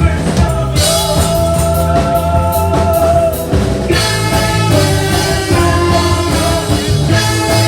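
Live band playing rock-style music with drum kit and bass, held chords over a steady low end, growing fuller about four seconds in.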